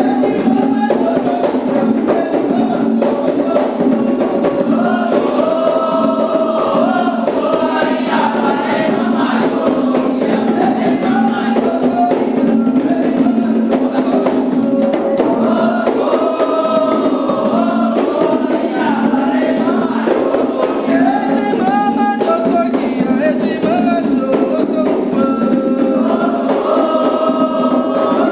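Candomblé ritual song: a group of voices singing in unison over steady hand percussion, continuous and loud.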